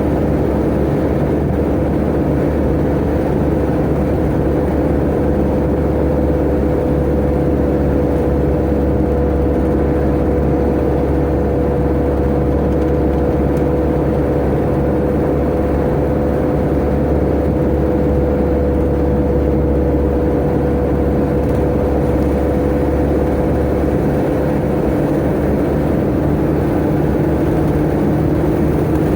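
Tata Ace mini truck's turbo engine running steadily at cruising speed, heard from inside the cab, a constant low rumble with a steady whine over it.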